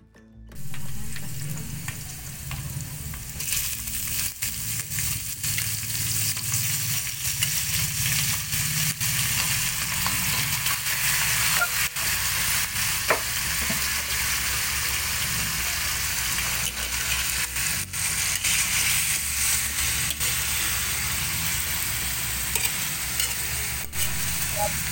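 Onions and pieces of stingray sizzling in hot oil in a metal wok while metal tongs and a spatula scrape and click against the pan as they are stirred. The sizzle starts about half a second in and grows louder a few seconds later.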